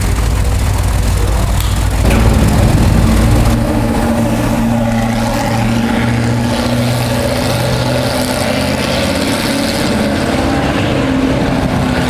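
Isdera Imperator 108i's Mercedes V8 running at low, steady revs; a louder, even engine note comes in about two seconds in and holds with little change in pitch.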